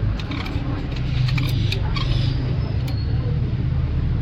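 A steady low engine rumble, with scattered light clicks and taps over it.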